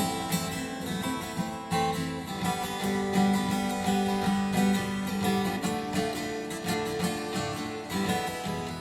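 Instrumental music: an acoustic guitar strummed in a steady rhythm.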